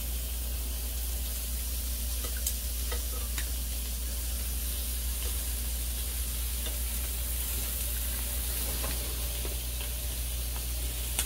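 A steady sizzling hiss with a few light, scattered clicks over a low steady hum.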